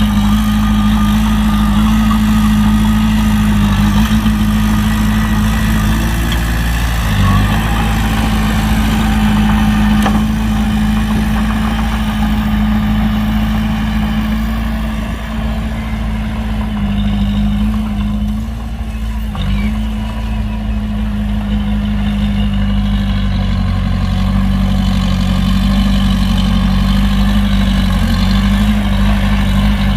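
Heavy diesel engine of earthmoving machinery running steadily at an even speed. Its note dips briefly about seven seconds in and again a little after halfway.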